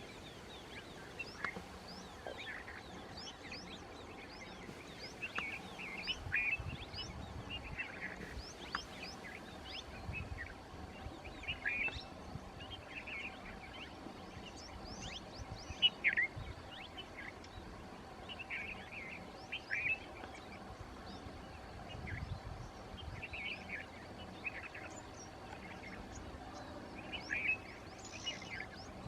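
Small wild birds chirping: many short, quick, high chirps in loose clusters, the loudest one about halfway through.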